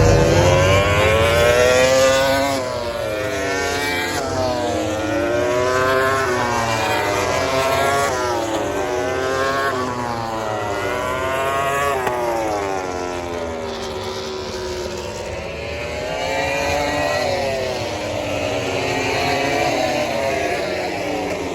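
MotoGP racing motorcycles passing at speed, several engines at once. Each engine's pitch climbs steeply and drops back at every upshift as the bikes accelerate, loudest in the first couple of seconds.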